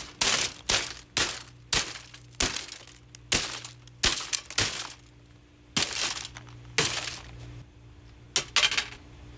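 Lasko Ultraforce box fan's plastic housing being smashed: about a dozen sharp, irregular blows with plastic cracking and breaking, with a short lull about halfway through.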